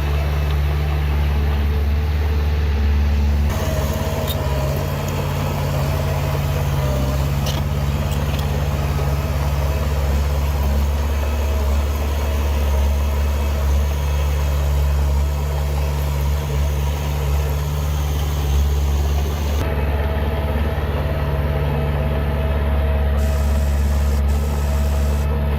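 Heavy diesel engine of earth-moving machinery running steadily with a deep, even hum. The background changes abruptly twice.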